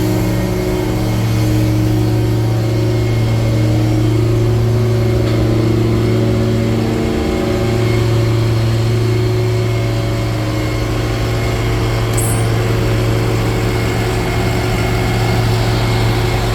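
Cummins diesel engine of a Freightliner M2 truck idling steadily, a loud, even drone.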